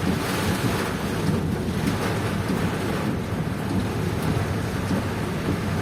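Heavy rain in a strong wind: a steady rushing noise with a low rumble of wind buffeting the microphone.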